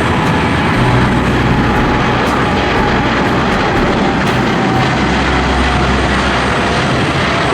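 Jet airliner engines heard close by, a loud steady rush with a whining tone that drifts slowly lower in pitch.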